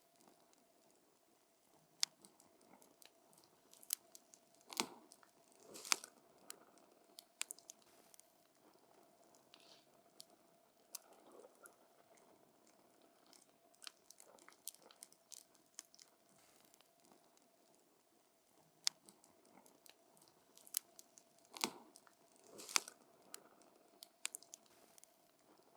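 Wood campfire crackling up close: irregular sharp pops and snaps, with a handful of louder cracks scattered through, over a soft background hiss.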